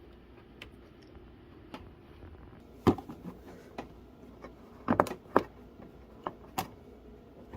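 A few sharp clicks and knocks as parts of a dehumidifier are handled, the loudest about three seconds in and two close together around five seconds in.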